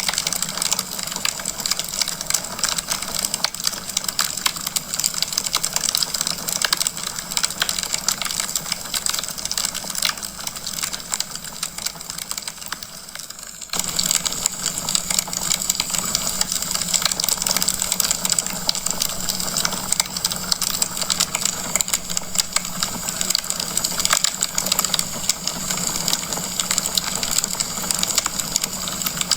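Wood fire burning in a fireplace, logs crackling and popping with a steady hiss of flame. The crackling quietens a little and then abruptly comes back to full strength about fourteen seconds in.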